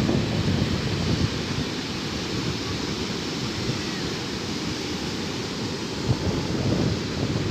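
Sea surf washing on the shore, with wind buffeting the microphone in a dense low rumble that swells and eases in gusts.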